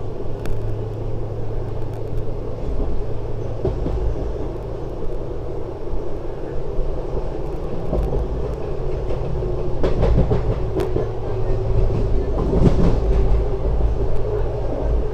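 A diesel-hauled passenger train running along the track, heard from on board as a steady rumble. About two-thirds of the way through there is a run of sharp wheel-on-rail clatter, the loudest part.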